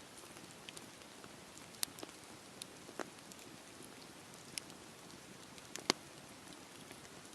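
Campfire burning: a soft steady hiss with irregular sharp crackles and pops from the burning wood, two of them louder, about two seconds in and near six seconds.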